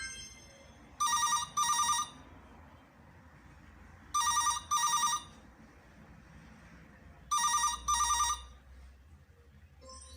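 Telephone ringing in a double-ring pattern: three pairs of short trilling rings, about three seconds apart.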